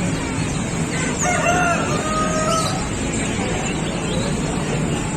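A rooster crowing once, a single call of under two seconds, over steady background noise.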